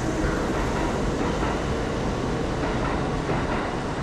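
Electric train on the tracks at an underground station platform, a steady running noise that fills the platform.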